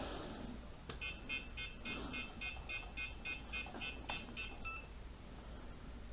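A click, then a rapid run of about fourteen short, high electronic beeps at about four a second, ending on a slightly longer beep, from the beeper in a WLToys V915 RC helicopter's radio gear.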